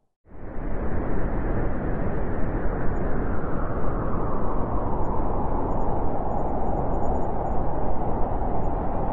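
A loud, steady rumbling noise with no clear tone, starting abruptly after a brief moment of silence.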